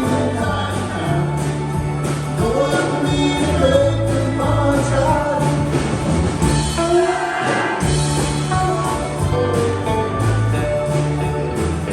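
Band music with a singing voice over sustained bass notes and a steady drum beat, played through a sound check.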